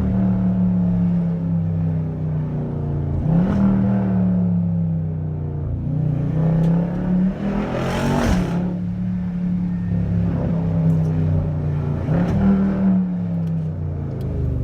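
Jeep Grand Cherokee SRT's V8 running loud through a muffler-deleted exhaust, revving up sharply about three times and falling back slowly between.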